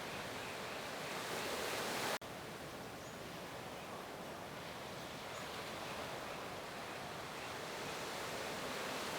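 Steady wash of ocean surf, mixed with wind noise, with a brief break about two seconds in.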